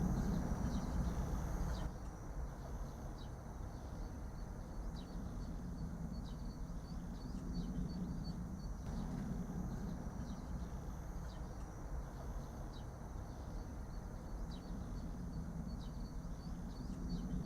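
Outdoor field ambience: a steady low rumble with a thin high hum, and faint short chirps scattered through it.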